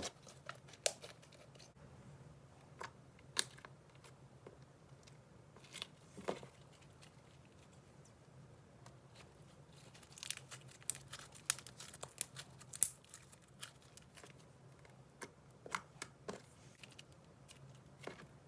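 Slime being played with by hand, making scattered sticky clicks and pops, with a quicker run of them about ten seconds in.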